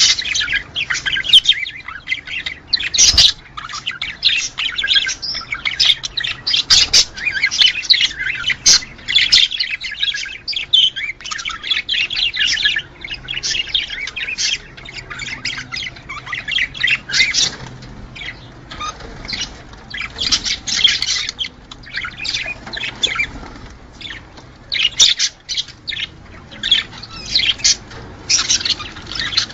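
A group of budgerigars chattering and warbling, a dense run of quick chirps and squawks without pause. This is the breeding-time chatter that budgie keepers play to pairs to get them to mate.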